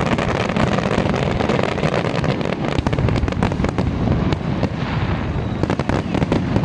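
Fireworks display going off, a dense run of sharp cracks and bangs over a continuous low rumble.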